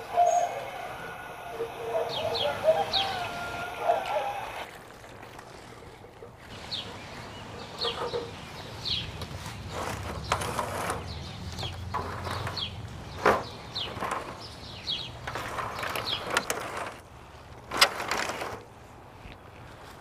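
Birds chirping in short, repeated high notes, mixed with rustling and a few knocks.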